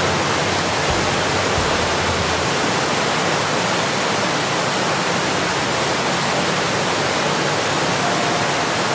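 Loud, steady roar of rushing water.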